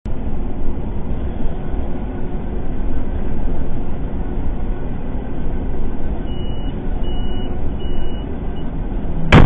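Heavy truck driving along a highway, a steady low rumble from the cab, with a thin high beep sounding on and off partway through. A sudden loud bang comes just before the end.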